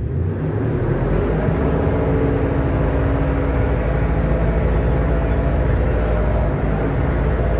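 Steady low mechanical drone with several held tones.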